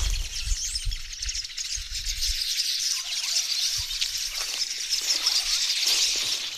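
Many small birds chirping and twittering together at a colony of nests in a tree, a dense, steady high chatter. Low buffeting noise on the microphone for the first two seconds or so.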